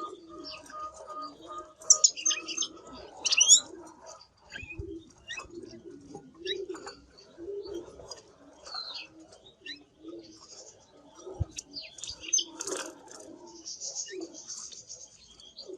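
Canary chirping and singing in short, scattered high phrases, with two loud bursts a couple of seconds in.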